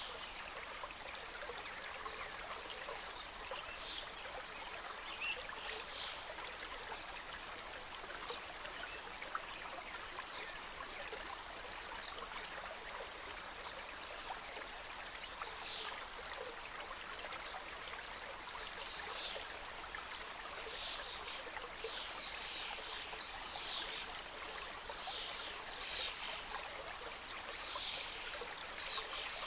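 Mountain stream cascading over rocks, a steady rush of flowing water. Short high bird chirps sound over it, more often in the second half.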